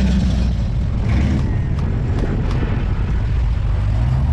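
Engines of classic American cars running at low revs as they roll through the street, a steady deep engine note that shifts to a different pitch near the end.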